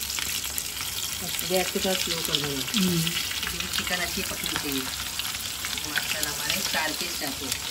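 Breadcrumb-coated chicken skewers sizzling in hot oil in a kadhai as more pieces are lowered in: a steady dense sizzle with fine crackles.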